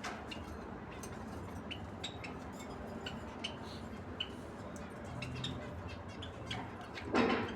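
Pair of lovebirds making short, high chirps and clicks scattered throughout, over a steady low background hum. A louder, noisier burst comes near the end.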